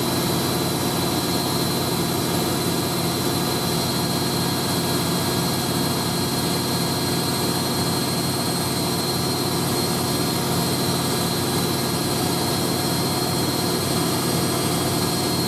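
Hoover A3060 Electronic 1100 washing machine in its final spin at 1100 RPM, a steady high-speed whine and drum drone, running smoothly with little shaking.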